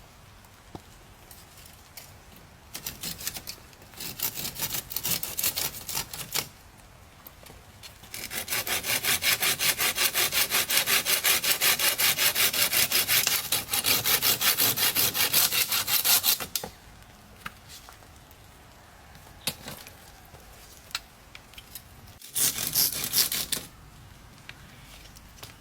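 Saw cutting through wood with fast back-and-forth strokes. There are two short bouts early on, then about eight seconds of steady, even sawing, then one more short bout near the end.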